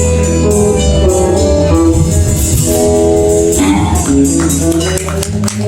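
Live band playing the closing instrumental bars of the song after the last sung line: sustained chords over bass, with a run of sharp percussive hits in the last couple of seconds.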